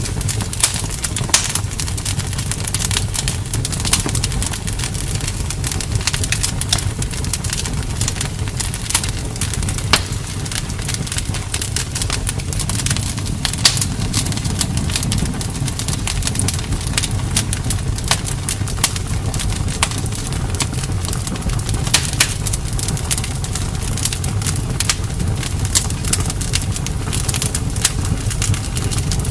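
Campfire crackling, with many irregular sharp snaps and pops over a steady low rumble.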